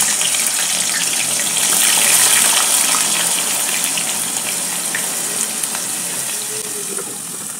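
Potato chips deep-frying in hot oil in an aluminium pot: a steady sizzle that slowly gets quieter.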